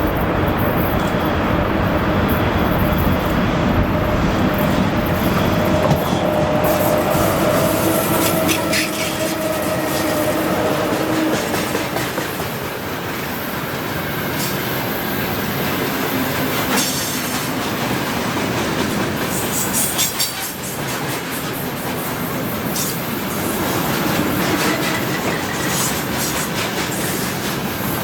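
Freight train hauled by a VL85 electric locomotive passing close by. A steady hum carries over the rumble for roughly the first ten seconds, then the wagons' wheels clatter over the rail joints with scattered clicks.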